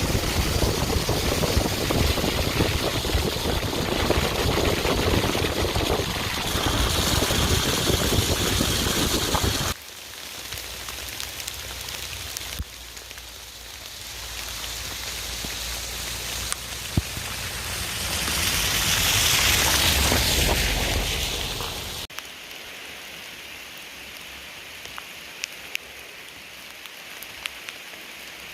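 Rain falling, heard in several short cuts that change suddenly in loudness. The first stretch is the loudest, with a low rumble under it, and the last is quieter with scattered drip ticks.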